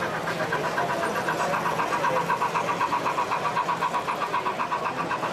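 Model train running on a show layout, a steady pitched mechanical sound pulsing evenly about five times a second over a background hum.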